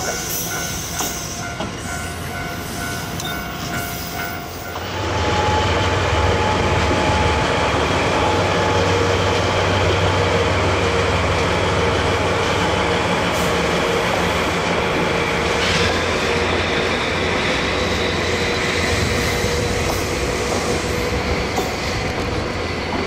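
Diesel train running on the tracks; the engine and the wheels on the rails grow suddenly louder about five seconds in and stay loud.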